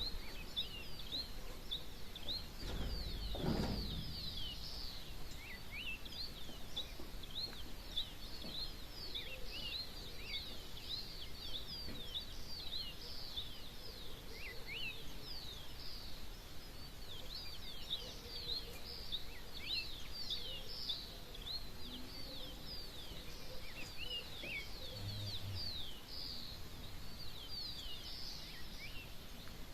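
Dawn chorus of many small birds chirping rapidly and densely, short high notes overlapping throughout, with a brief low rumble about three seconds in.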